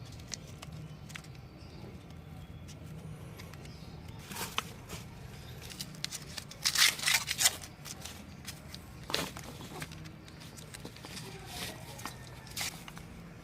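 Short clicks and clatters of hand tools being handled, with a quick cluster about seven seconds in, over a steady low hum.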